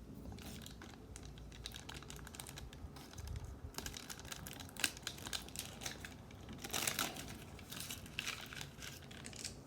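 Trading cards being handled and flipped through: a steady run of light clicks and paper rustles, with louder crinkly rustles about seven and eight seconds in.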